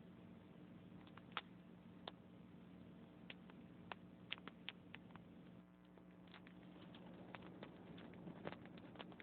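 Wood logs burning in a fireplace, crackling faintly with irregular sharp pops, over a faint steady low hum.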